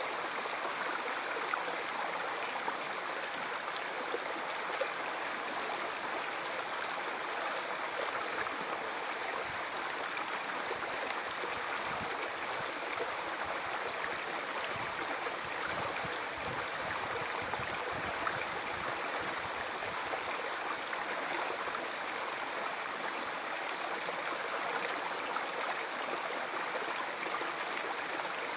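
A river or stream flowing over rocks: steady rushing and babbling water with small splashes.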